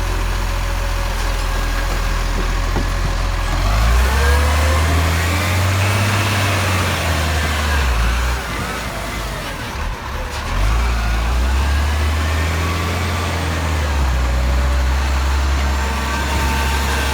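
Garbage truck's diesel engine driving along: a steady low drone with a whine that rises and falls as it pulls away and eases off, twice, about four seconds in and again from about eleven seconds.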